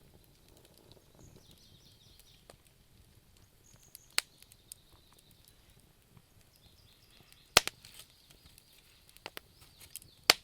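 Wood fire crackling in a fireplace: sparse sharp pops and small ticks over a faint hiss, with three loud pops at about four seconds, seven and a half seconds, and near the end.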